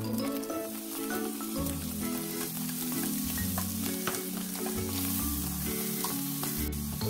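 Shrimp, chopped onion, scrambled egg and garlic sizzling as they are stir-fried in a nonstick frying pan, with the plastic spatula clicking and scraping against the pan. Background music with a low, steady melody plays underneath.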